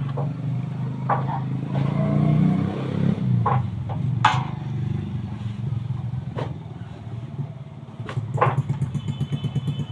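A small engine running steadily at idle, with several sharp clicks and knocks over it, the loudest about four seconds in.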